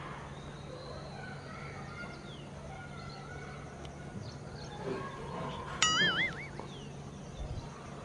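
Open-air ambience with faint, scattered bird chirps over a steady low hum. About six seconds in comes a loud, short tone whose pitch wobbles up and down, lasting under a second.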